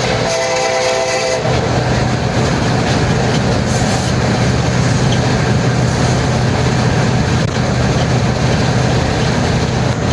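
Diesel train horn sounding a chord that cuts off about a second and a half in, followed by the train's steady loud running noise with a low engine hum.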